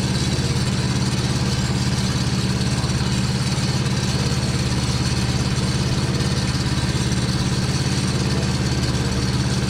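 John Deere 650 compact tractor's Yanmar diesel engine running at a steady speed set by the hand throttle.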